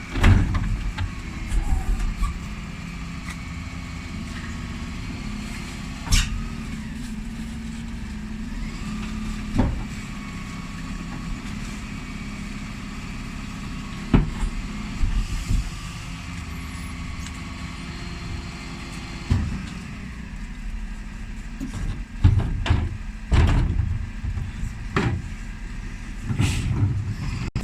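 Dennis Elite 6 refuse lorry running with a steady low engine hum, broken by sharp knocks and clanks every few seconds that come thicker in the last few seconds.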